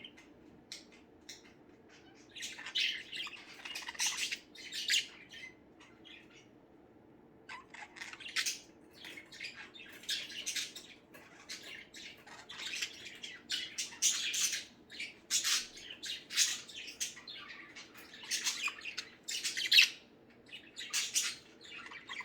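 Pet budgerigars chirping and squawking in quick, busy clusters of short high calls, with a brief lull about six seconds in. A faint steady low hum runs underneath.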